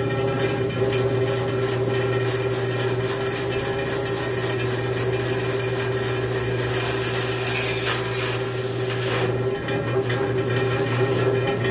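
14-inch Chicago bandsaw running with a steady motor and blade hum and a light, even rattle from the back of the saw.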